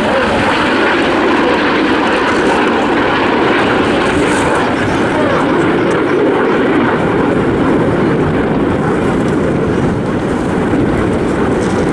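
BAE Hawk T1 jet trainers flying past, a loud, steady jet roar from their turbofan engines.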